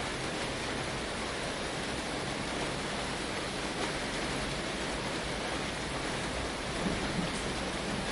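Steady, even rain drumming on a tin roof, with a low rumble of thunder starting to build near the end.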